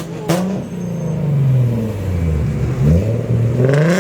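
Car engine being revved repeatedly, its pitch dropping back and then climbing again several times, with a sharp crack just after it begins.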